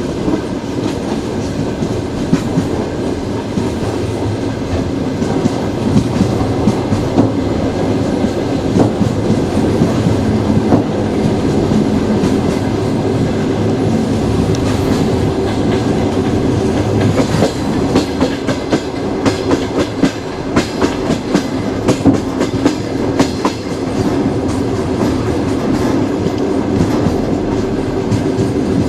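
Train wheels running over the rails: a steady rumble with frequent clickety-clack clicks from the wheels.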